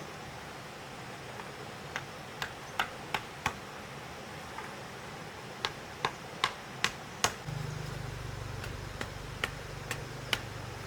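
Sharp taps or knocks in quick runs of about five, roughly three a second. A low steady hum comes in a little past halfway, and a few more taps sound over it.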